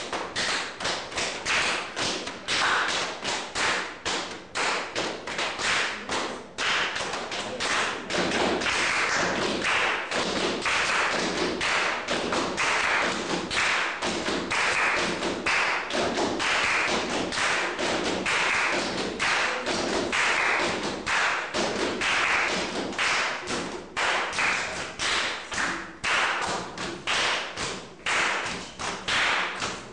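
Body percussion by a group of people: hand claps and slaps on the body in a fast, steady rhythm of about four strikes a second.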